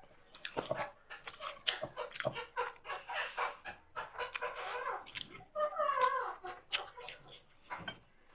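Close-miked eating: chewing, crunching and wet mouth clicks and smacks, as noodles and momos are eaten. About six seconds in comes a short pitched call, one of the loudest sounds.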